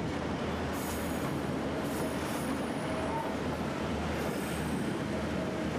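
Narrow-gauge passenger train rolling along a curve, heard from aboard: a steady rumble of wheels and cars, with faint high wheel squeal coming and going a few times.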